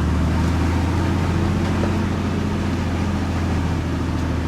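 Truck engine running steadily while driving, a constant low drone with road noise.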